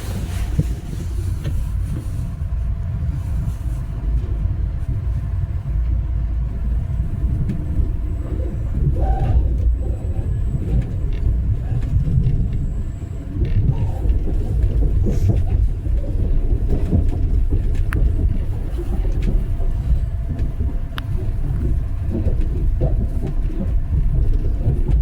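Steady low rumble of a moving vehicle heard from inside.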